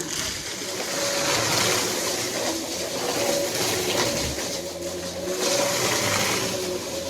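Vacuum cleaner running with a steady rushing hiss and a motor hum, swelling and fading about every two seconds.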